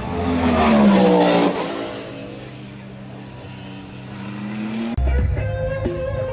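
A race car passing close at speed, its engine loud and dropping in pitch as it goes by, then fading to a steadier engine note that slowly rises. About five seconds in, the sound cuts abruptly to guitar music.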